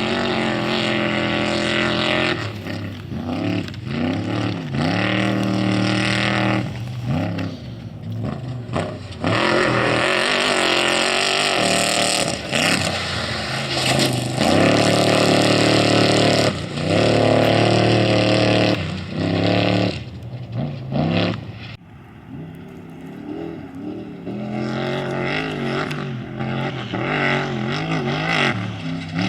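Off-road race vehicle engines revving hard as they speed past, pitch climbing and falling with throttle and gear changes, loudest in the middle. The sound drops off abruptly a little after twenty seconds, then another engine builds up.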